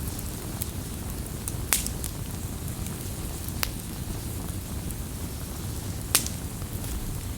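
Campfire burning: a steady low rumble of flames with scattered sharp crackles and pops of burning wood, three louder pops among them.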